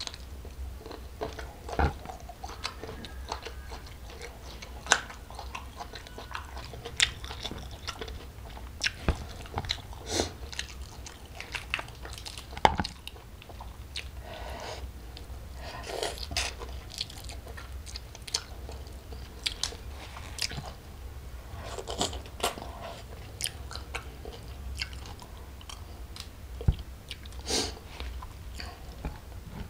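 Close-miked eating sounds: chewing and biting into jumbo prawns with rice and raw vegetables, with irregular sharp crunches. Fingers pull the prawns apart.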